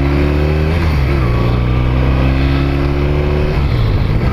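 Motorcycle engine under acceleration: its pitch climbs steadily, drops briefly about a second in as it shifts up, climbs again, then falls away near the end as the throttle eases off.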